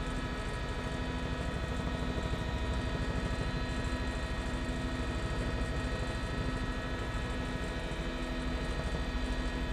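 Helicopter rotor and engine running steadily, heard from inside the cabin: a fast, even beat of the blades with a steady whine above it.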